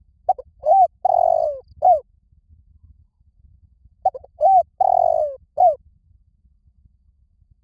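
Spotted dove cooing: two song phrases about four seconds apart. Each phrase is a few short low coos, then a longer drawn-out coo and a final short coo, played as a lure call for wild doves.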